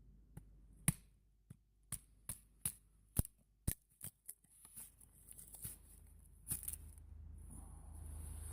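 A series of sharp, irregular clicks and snaps, about ten in the first five seconds, followed by a soft steady hiss.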